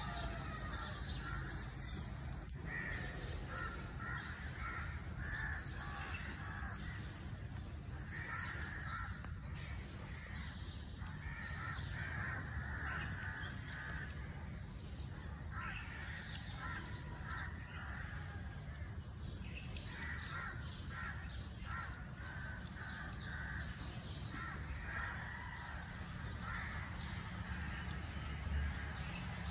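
Birds calling over and over in short runs of calls every second or two, over a steady low rumble.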